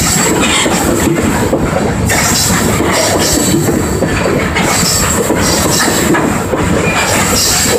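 Freight train of open-top aggregate hopper cars rolling past close by: a loud, steady rumble of steel wheels on rail, with the clack of wheels over rail joints.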